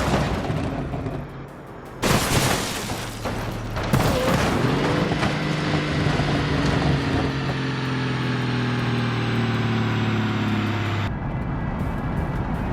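Vehicle crash caught on a dashcam: a sudden loud impact about two seconds in and another about two seconds later, followed by a steady droning tone that sinks slowly in pitch for several seconds and cuts off abruptly near the end.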